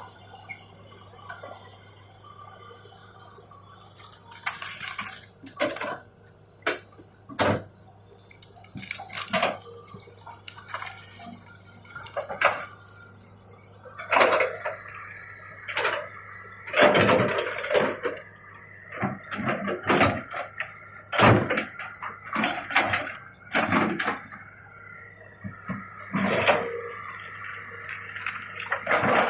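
Excavator at work: irregular metallic clanks, knocks and crackling crashes over a steady low engine hum, busier and louder from about halfway through.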